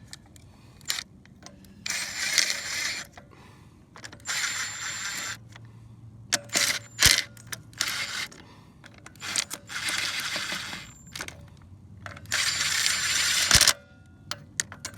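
A 9/16-inch socket ratchet tightening bolts on a Jeep's Dana 30 front axle, in about five short bursts of rapid clicking with pauses between, the bolts run down only moderately snug.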